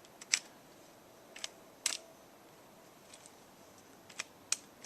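A few light, sharp mechanical clicks, spaced irregularly over several seconds, from the action of a Marlin 795 .22 LR semi-automatic rifle being handled. The loudest click comes just after the start.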